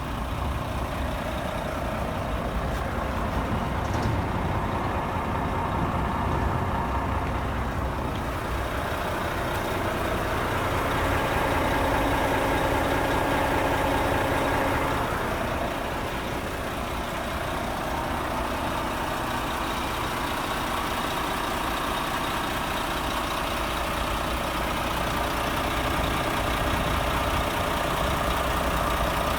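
Renault T460 tractor unit's six-cylinder diesel engine idling steadily, a little louder for a few seconds around the middle.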